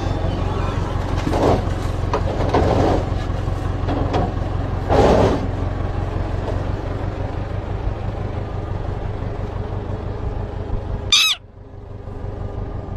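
Steady low rumble like a running engine or traffic, with a few brief louder sounds over it and a short, sharp chirp-like call about eleven seconds in, after which the sound drops away suddenly.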